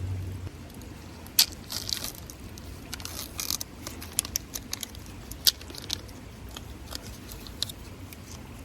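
Wood fire crackling, with irregular sharp pops and snaps, a few of them louder than the rest.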